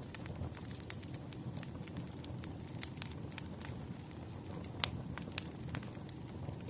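Firewood burning: a low steady rumble of flames with frequent irregular crackles and sharp pops, the loudest pop a little under five seconds in.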